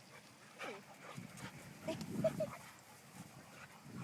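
Dogs vocalising at play: a short falling whine-like call just under a second in, then a quick run of short yelps and barks about two seconds in.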